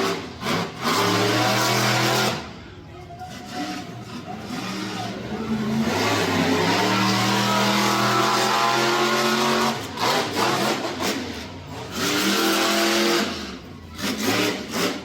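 Monster truck engine revving in long bursts of throttle, with its pitch rising and falling and the sound dropping back in between.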